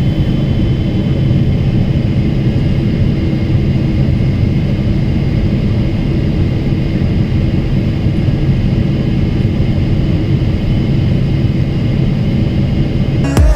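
Steady cabin drone of a Boeing 777-300ER airliner on approach: the hum of its twin GE90 engines and the rush of air over the fuselage, unchanging throughout.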